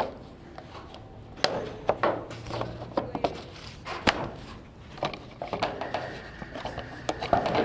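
Irregular knocks and taps of plumbing hand work, pipes and tools being handled and set down. A faint steady high tone comes in about six seconds in.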